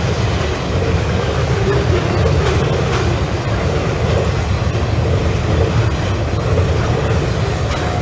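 Freight train wagons rolling past in a steady rumble, with a few faint clicks of wheels over the rails.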